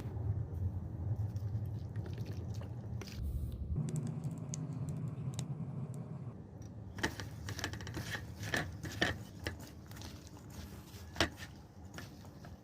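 Light, irregular clicks and scrapes of kitchen utensils and food being handled while making coleslaw, growing busier about halfway through, with a few sharper knocks.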